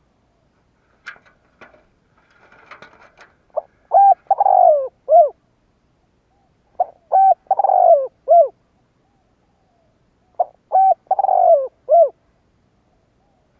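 Spotted dove cooing: three song phrases a few seconds apart, each made of two short coos, a longer wavering coo that falls in pitch, and a short final coo. A few faint clicks come just before the first phrase.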